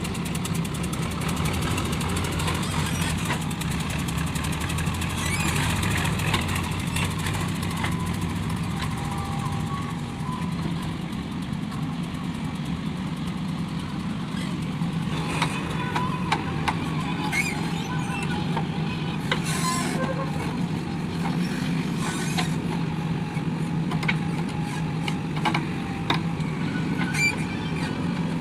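Diesel engines of a backhoe loader and tractors running steadily at work, a continuous low drone, with a few sharp knocks and clatter in the second half.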